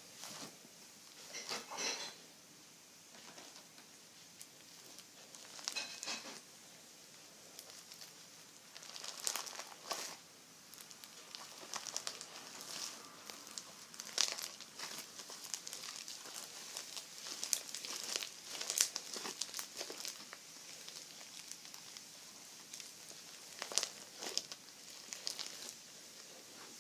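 Slime being squeezed and worked by hand, giving irregular bursts of small crackles and pops with short quiet gaps between them.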